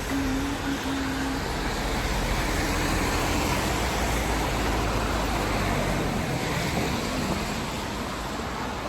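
Road traffic going past: a steady rumble of car engines and road noise that eases off near the end.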